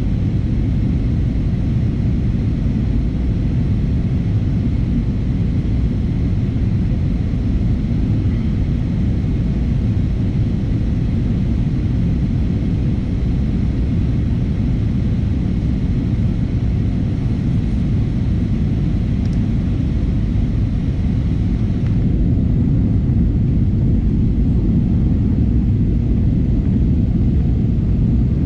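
Steady cabin rumble of an Airbus A320neo in flight, the engines and airflow heard from a window seat, deep and even with a lighter hiss above it. About two-thirds of the way through the hiss drops a little and the rumble grows slightly louder.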